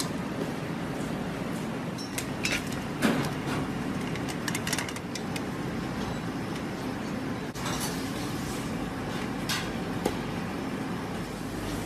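A few short clinks and knocks, like dishes or utensils being handled, over a steady background noise.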